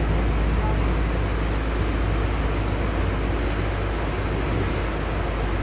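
Steady ride noise inside a LiAZ-6213.65 articulated city bus: a deep, even engine and drivetrain rumble with road and air hiss over it.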